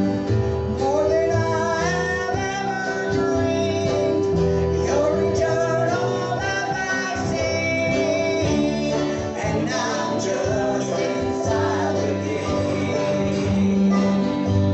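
Live gospel song: voices singing a melody over acoustic guitar accompaniment in a country style.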